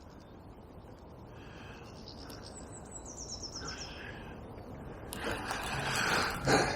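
A small songbird sings a quick trill of high notes that step down in pitch, over faint outdoor background. Near the end a louder rushing, crackling noise rises up.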